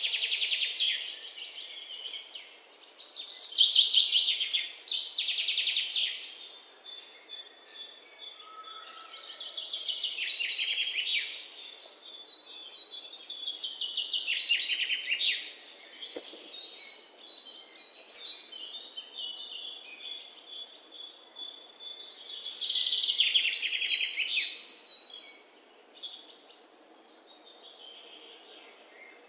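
Songbirds singing: bursts of fast trills and repeated chirps, each a few seconds long. The loudest come about four seconds in and again about twenty-three seconds in, and the song grows faint near the end.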